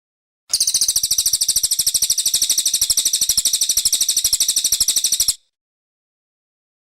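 Brown cililin bird singing one very high-pitched, rapid trill of about five seconds that starts about half a second in and cuts off abruptly, with dead silence on either side.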